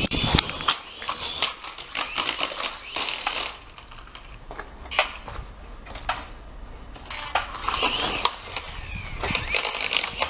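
A small toy helicopter's motor whine cuts off with a knock, followed by irregular plastic clicks, knocks and rattles as the little helicopter is handled.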